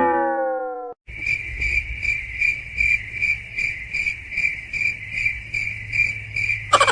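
Cricket chirping in a steady rhythm of about two to three chirps a second, over a low hum. In the first second a falling pitched tone fades and cuts off before the chirping begins.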